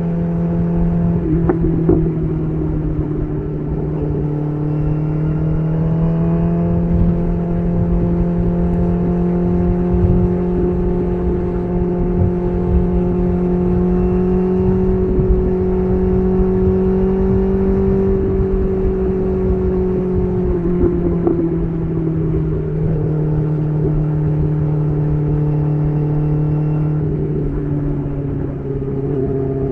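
BMW S1000RR's inline-four engine, breathing through an SC Project CR-T titanium exhaust, running steadily under way. The engine note climbs slowly for about a dozen seconds, eases back down a little past the middle, and shifts again near the end.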